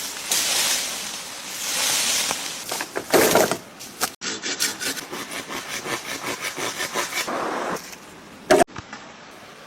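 Wood being sawn by hand: rasping strokes, about four a second in one stretch, broken up by sudden cuts between short takes.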